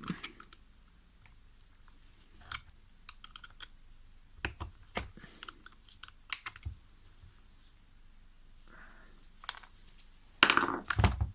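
Small screwdriver clicking and scraping against the sprocket's retaining clip on a battery chainsaw's sprocket shaft, prising it off: scattered light metal clicks, with a louder clatter about ten seconds in.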